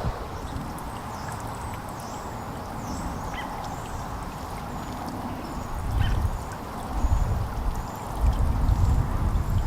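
Small songbirds giving brief, high chips and twitters again and again over a steady outdoor hiss. Bursts of low rumble come in over the second half and are the loudest sound.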